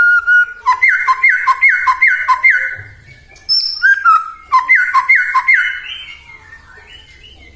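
White-rumped shama (murai batu) singing: a quick run of about five repeated whistled notes that each slur downward. After a short pause and a higher note comes a second run of the same notes, fading near the end.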